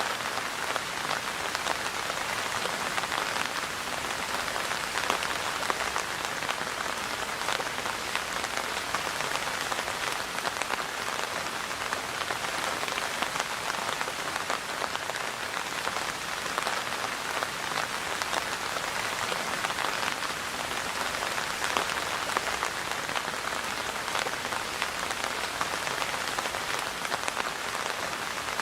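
Steady rain falling: an even hiss made of many small drops hitting, with no change in strength.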